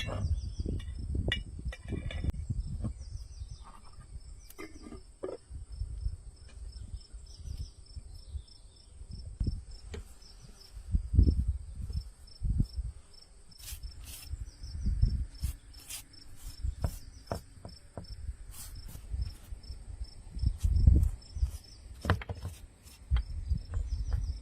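Crickets trilling steadily at a high pitch. Irregular low thumps and sharp clicks come and go throughout and are the loudest sounds.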